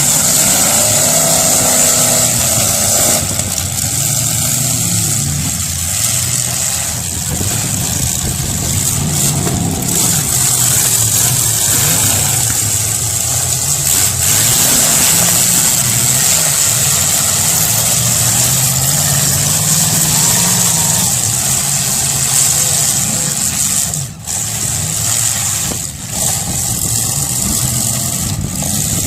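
Several demolition derby car engines running and revving at once, their pitch rising and falling, with a steady high whine throughout.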